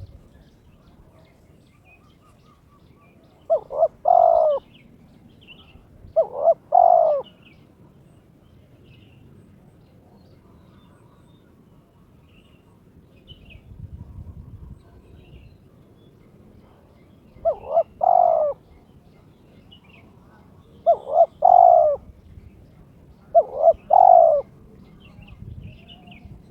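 Spotted dove (terkukur) cooing: five loud phrases, each a short note followed by a longer one, spaced a few seconds apart with a long pause in the middle. This is the territorial call of a male in breeding condition, calling out to a rival.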